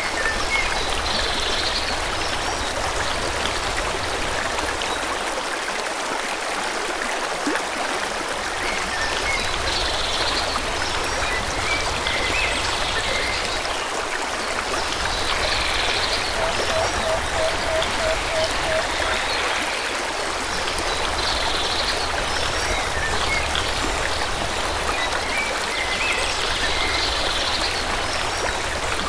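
Forest stream flowing steadily, with birds chirping every few seconds and, a little past the middle, a quick run of short, low repeated calls.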